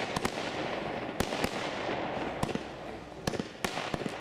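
"Dragon Wings" firework battery firing: about eight sharp bangs at irregular intervals as its shots launch and burst, over a steady rushing noise.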